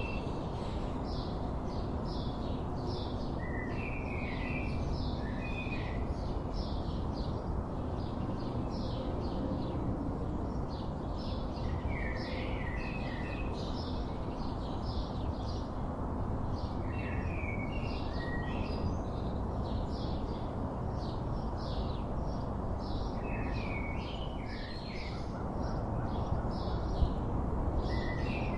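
Wild birds singing: a short warbled phrase repeats every several seconds over many quick, high chirps, against a steady background hiss and rumble.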